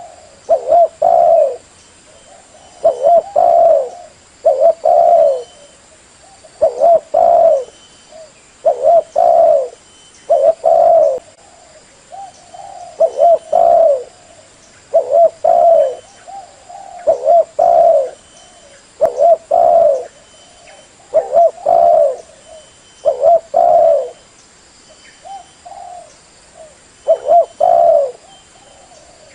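Spotted dove cooing over and over in short low phrases of two or three coos, a phrase every second or two. This is the decoy bird's call, used to lure wild spotted doves.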